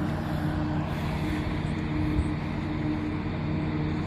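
An engine running steadily: a low, even drone with a constant hum.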